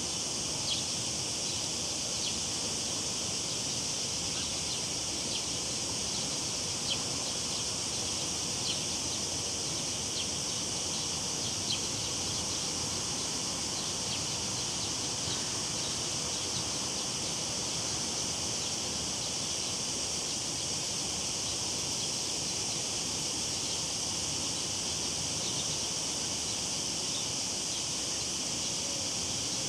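Cicadas singing in a steady, unbroken high drone over the even wash of a river's running water. A few faint short ticks sound in the first dozen seconds.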